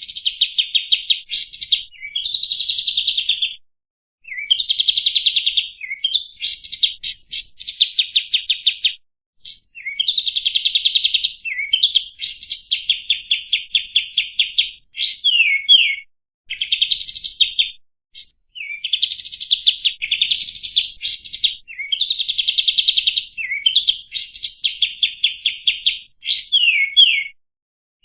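Kapas tembak songbird singing a continuous, fast chattering song. It runs in phrases of a second or two made of rapid trills of repeated high notes, broken by short gaps and quick sweeping whistles.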